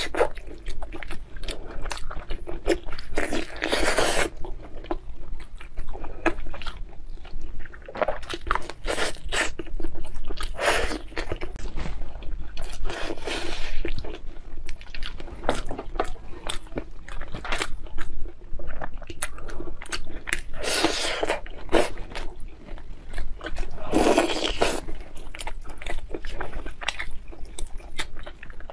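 Close-miked eating sounds of a person biting and chewing glazed meat off the bone, with irregular sharp clicks and louder bursts of chewing every second or so.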